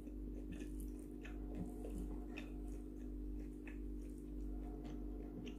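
Close-miked chewing: soft, scattered mouth clicks and smacks of a mouthful of food being chewed, over a low steady hum.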